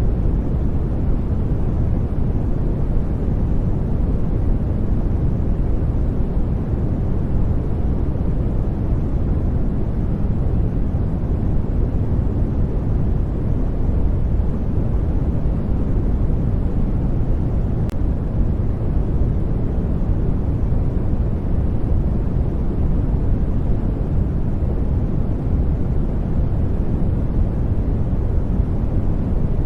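Steady sleep noise track: a smooth, unchanging rushing hiss, heavy in the low end and soft in the highs, with no rhythm or events.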